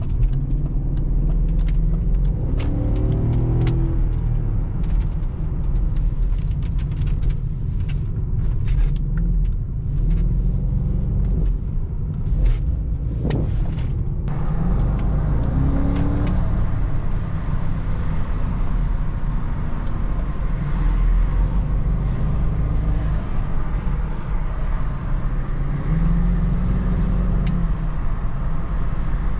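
BMW X5 E53 4.4i's M62 V8 and the car's road noise while driving: a steady low rumble with scattered clicks and knocks during the first half. From about halfway the tyre and wind hiss grows louder.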